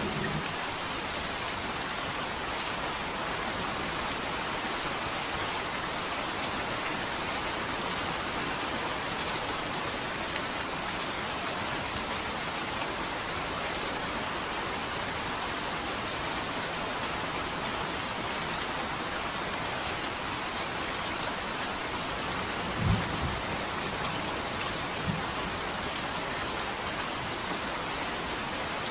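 Steady rain falling, with a short, low thunder rumble about two-thirds of the way through and a fainter one just after.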